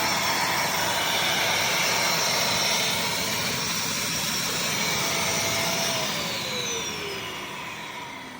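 Bissell CrossWave HydroSteam Pet wet-dry floor cleaner running with a steady whirr and whine, then switched off near the end, its motor winding down in a falling whine.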